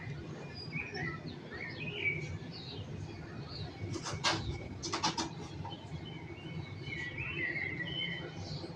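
Small birds chirping and twittering over a steady low city hum. A little past halfway comes a short cluster of sharp, noisy strokes.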